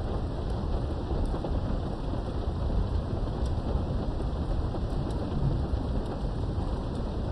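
Steady rain heard through a window, with a continuous low rumble of distant thunder. A few faint drop taps stand out above the rain.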